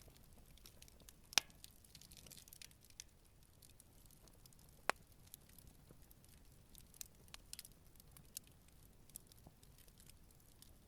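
Campfire burning gently, the wood crackling with scattered small snaps over a faint hiss. Two sharper pops stand out, about a second and a half in and about five seconds in.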